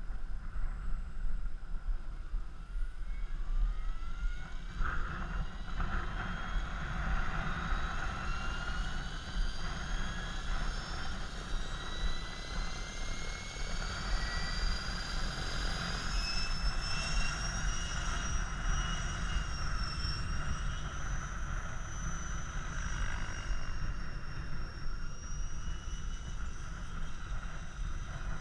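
Electric 700-size RC helicopter (KDS Innova 700E) spooling up: its motor and rotor whine rises in pitch for the first half, then holds steady at flying speed. Wind buffets the microphone with a steady low rumble.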